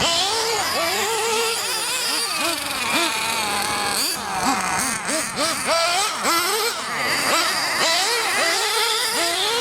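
Small nitro RC engine revving up and down over and over as the throttle is worked. It sounds as a high, buzzy whine that climbs and falls every half second or so.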